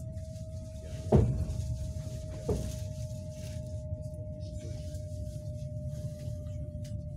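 Passenger train running, heard from inside the carriage: a steady low rumble with a thin steady whine over it. Two sharp knocks come about a second in and again about a second and a half later; the first is the louder.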